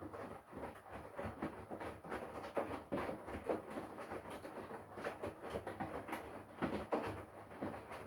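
Front-loading washing machine drum turning, with laundry and water sloshing and tumbling in uneven splashes and soft knocks.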